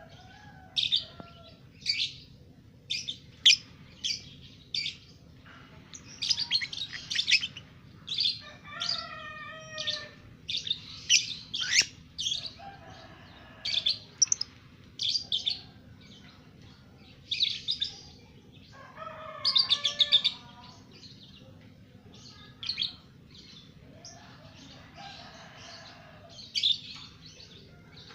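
Two-month-old lovebird chirping in sharp, shrill calls every second or two, with a few short chattering runs in between.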